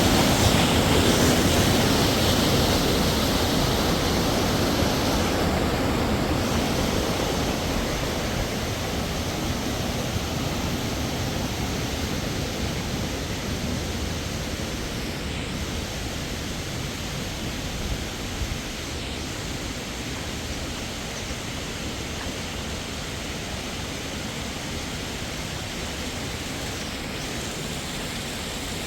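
Steady rushing of a waterfall, growing gradually fainter over the first twenty seconds and then holding level.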